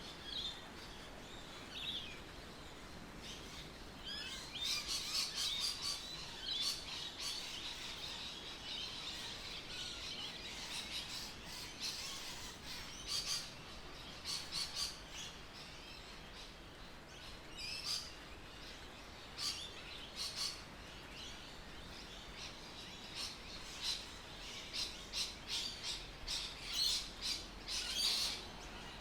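Birds chirping, in clusters of quick high notes that come and go every few seconds, over a faint steady background hiss.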